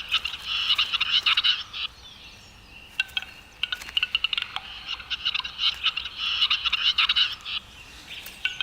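Male grouse giving his courtship display calls with inflated air sacs: bouts of rapid clicking and rattling, each a second or two long, with short pauses between them.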